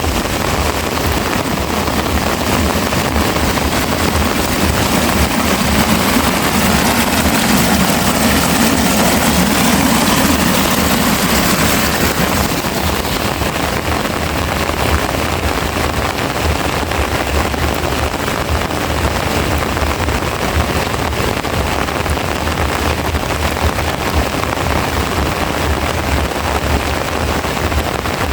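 Heavy rain falling steadily. A vehicle passes through it in the first half, swelling and fading over several seconds.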